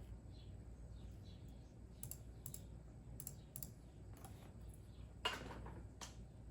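Computer keyboard typing: a few scattered keystrokes starting about two seconds in, with one louder keystroke about five seconds in. Faint bird chirps can be heard early on.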